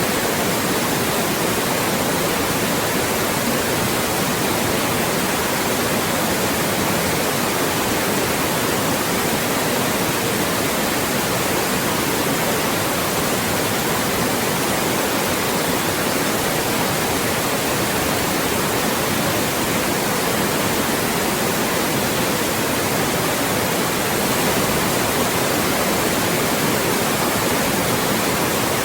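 Loud, steady white noise: an even hiss across all pitches with no change.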